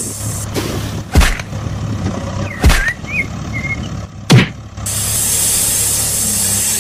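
A vehicle engine running with a steady hum, overlaid by three loud swooshing hits, about one every second and a half, and a few brief chirps between the second and third. The hum dips briefly after the third hit and then returns.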